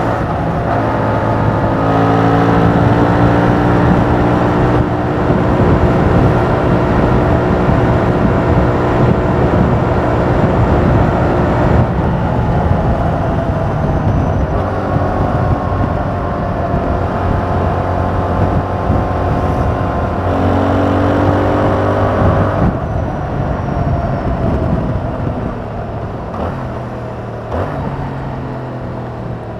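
Yamaha MT-07's 689 cc parallel-twin with its 270° crank, on the stock exhaust, pulling under way. The engine pitch rises and falls with throttle and gear changes, then gets quieter near the end as the bike eases off.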